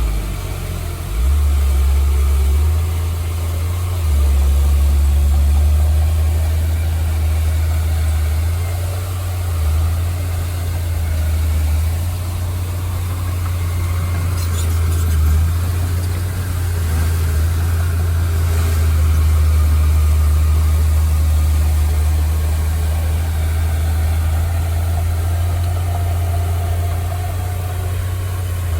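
Engine of heavy earthmoving machinery running steadily, a deep low rumble that dips and swells slightly.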